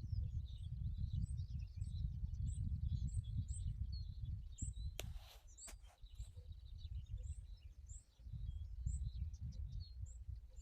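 Birds singing, one repeating a short high chirp about twice a second amid other twittering, over a low rumbling noise. A sharp click about five seconds in and another just before six seconds.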